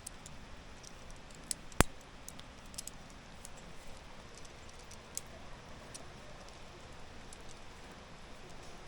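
Steady hiss of light rain with scattered small ticks, and one sharp click about two seconds in.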